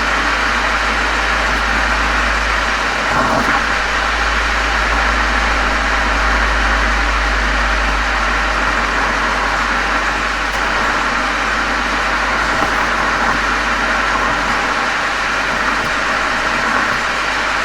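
Volkswagen Golf 7 GTI's turbocharged 2.0-litre four-cylinder running steadily through a Cox aftermarket muffler and chamber, heard at the exhaust from outside the car. The engine note holds even, with no revving.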